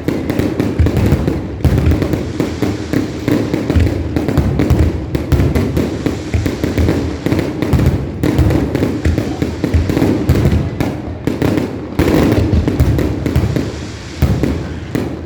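Aerial fireworks display in a dense, unbroken barrage of booms and crackling bursts, shells going off several times a second.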